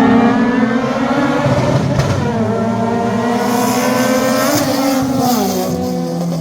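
Performance car engine running loud. Its revs climb about four seconds in and drop back a second later.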